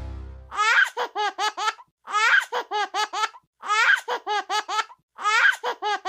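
High-pitched giggling laugh sound effect, one 'ha-ha-ha-ha' burst repeated four times in identical copies about a second and a half apart.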